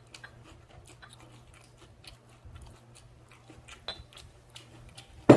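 Close-up chewing and biting of grilled pork belly: a run of small, scattered mouth clicks and crunches. Near the end comes one loud, sharp knock.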